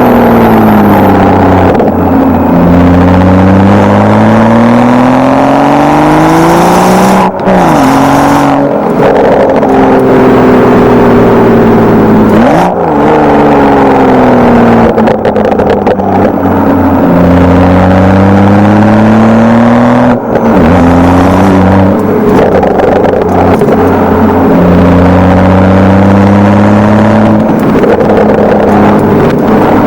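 BMW F30 335i's N55 turbocharged 3.0-litre inline-six running through a Wimmer stainless-steel exhaust, 3-inch from the catalytic converter back, in Sport mode. The engine note sweeps slowly up and down in pitch as it pulls through the revs, with three brief sudden breaks between pulls.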